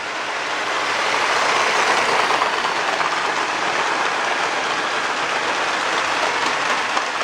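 Toy LEGO trains running on plastic track: a steady whirring rattle of small electric motors and wheels on the rails, a little louder a second or two in.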